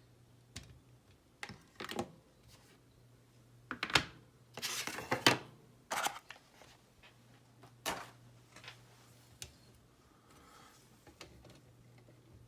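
Scale-model kit parts being handled and set down on a tabletop: a dozen or so irregular clicks and knocks, with a short flurry of louder knocks about four to five seconds in.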